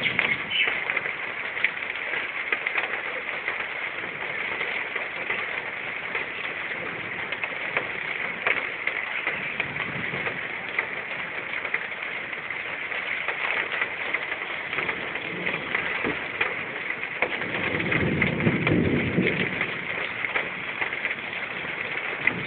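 Heavy rain falling steadily, with a low rumble of thunder swelling for a couple of seconds toward the end.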